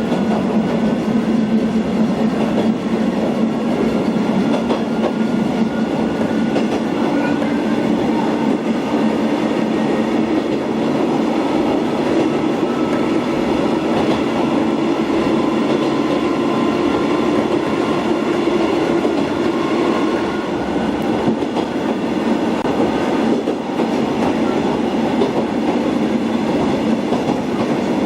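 Keihan 260-series train car running steadily along the track, heard on board: continuous running noise with a motor whine that drifts slowly in pitch.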